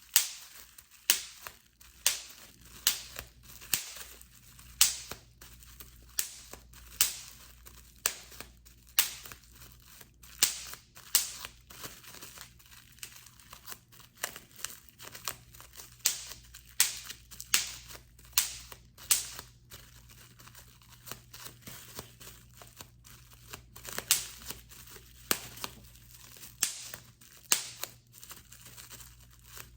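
Bubble wrap being popped by hand: a long run of sharp, irregular pops, roughly one or two a second, with plastic crinkling between them.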